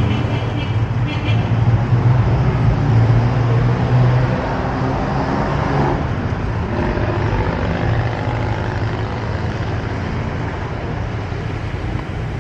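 City street traffic: a vehicle engine's low rumble, loudest in the first four seconds, then settling into a steady wash of passing traffic.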